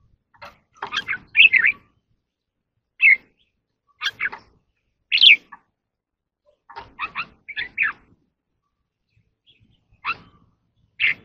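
Red-whiskered bulbul singing short, clear phrases of its 'ché kích bổi' song, spaced with pauses of a second or more.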